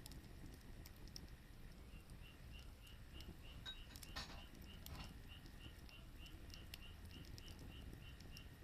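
Faint wood fire with a few soft, scattered crackles. From about two seconds in, a faint high chirp repeats evenly, about four times a second.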